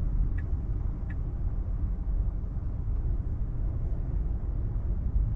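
Steady low rumble inside the cabin of a 2024 Tesla Model 3 electric car rolling slowly over wet pavement, with two faint ticks of the turn signal in the first second or so.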